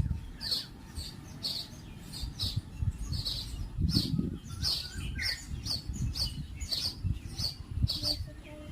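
Baya weaver birds chirping: short, high chirps repeated about twice a second, over a low uneven rumble.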